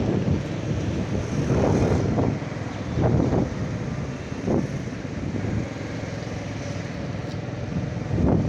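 Motorcycle riding along, its engine and road noise under wind buffeting the microphone in several gusts.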